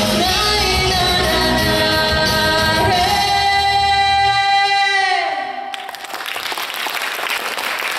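A woman singing the close of a Russian song over instrumental backing, holding one long final note that ends about five and a half seconds in. Applause follows to the end.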